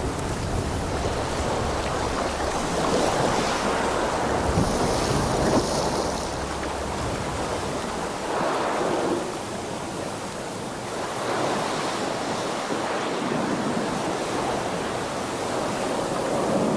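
Ocean water sounds: a noisy rush of sea water that swells and fades every few seconds, with a low rumble under the first half.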